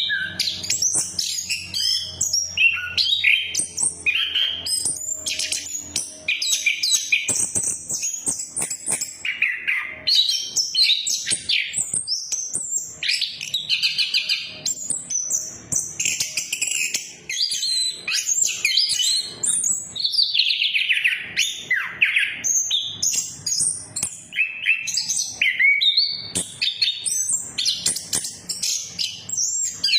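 Chestnut-capped thrush (anis kembang) singing continuously: a fast, varied song of chirps, trills and gliding whistles with hardly a pause.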